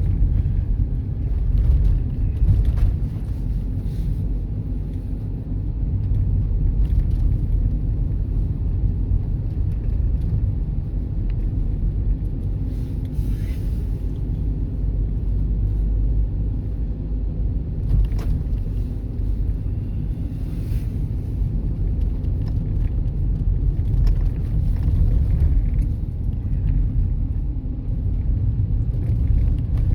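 Steady low rumble of a car driving, engine and tyre noise heard from inside the cabin, with a faint steady whine above it.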